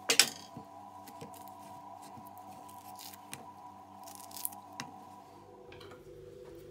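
A sharp kitchen click just after the start, the loudest sound, then a few lighter clicks and taps, over soft background music whose held notes change about six seconds in.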